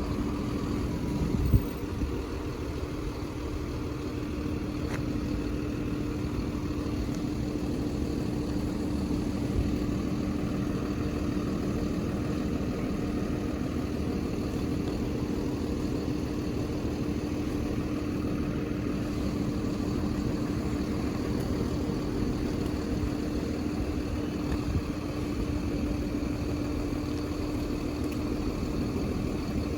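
An engine idling steadily with a constant low hum. A single sharp knock about a second and a half in.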